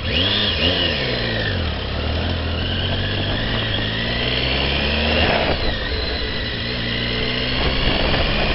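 Triumph Tiger motorcycle's three-cylinder engine running at low road speed, its pitch rising and falling once about half a second in and then holding steady, with wind noise over it.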